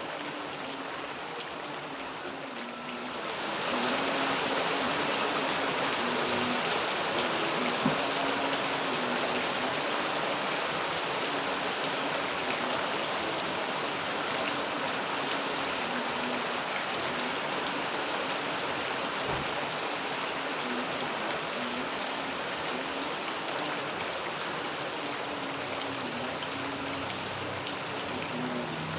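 Steady rain falling, growing heavier about three to four seconds in, with one sharp drip or tap near the eight-second mark.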